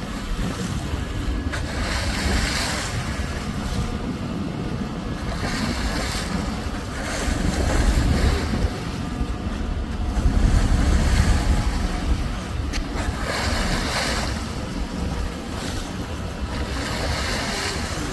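Wind buffeting the microphone over water washing along a moving boat, with a hiss of spray surging every few seconds.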